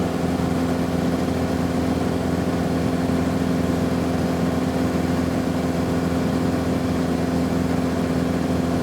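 Cessna 172 light aircraft's piston engine and propeller in steady flight, an even drone holding one pitch throughout.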